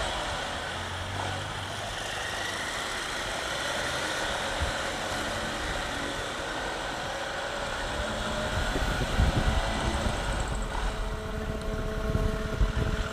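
Bajaj Pulsar 200 NS single-cylinder motorcycle engine running while riding in traffic, with other vehicles around. It gets louder and more uneven from about nine seconds in.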